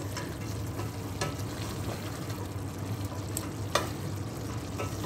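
Chicken pieces sizzling as they fry in their own released juices in a stainless steel pot, stirred with a slotted spatula, with a few sharp clicks and scrapes of the spatula against the pot, the loudest about three and a half seconds in.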